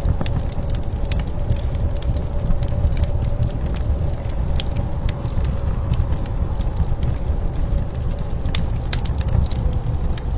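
Blizzard wind outside a cabin: a steady low rush with a faint held whistle. Over it, a wood fire crackles with frequent small sharp pops.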